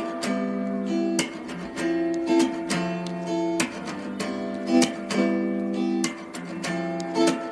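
Acoustic guitar music: strummed chords with plucked notes, a sharp strum about every second.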